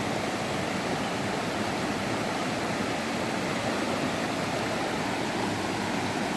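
Fast-flowing, rough river rushing steadily, a constant even roar of water.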